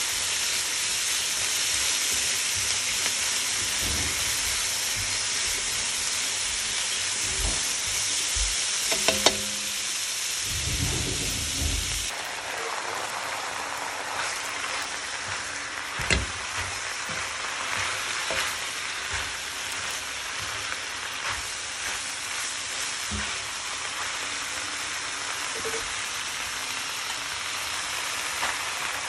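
Shredded cabbage and mixed vegetables sizzling in a hot non-stick pan as they are stir-fried with tongs, with a few sharp clicks along the way. The sizzle drops a little about twelve seconds in.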